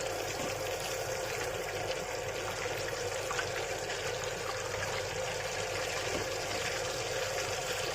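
Breaded chicken legs frying in oil on a low flame: a steady, even sizzle.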